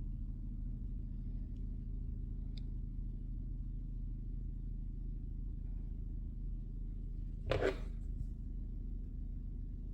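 Steady low background hum, with a brief knock or rustle of handling about seven and a half seconds in.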